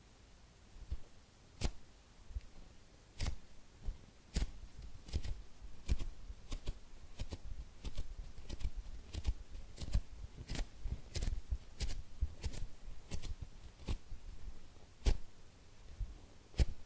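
Hands squeezing and handling soft foam squishy toys shaped like food: irregular sharp taps and light crackles mixed with soft low thuds, coming every second or so and sometimes faster.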